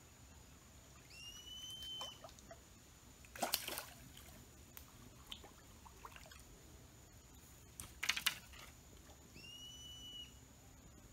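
A hooked fish splashing at the water surface twice, about three and a half and eight seconds in, while being played on a bamboo pole. A short whistled call, rising and then held, sounds twice, near the start and near the end, over a faint steady high tone.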